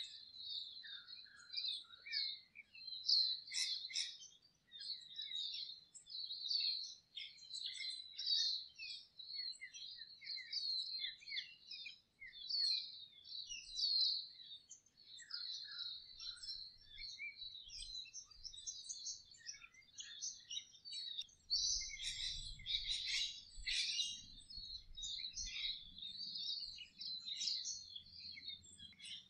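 Songbirds chirping and twittering continuously, many short overlapping calls, busiest about three-quarters of the way through.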